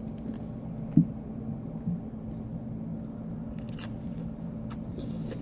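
Close-up chewing and biting of food, with a few soft crunches and knocks, over a steady low hum.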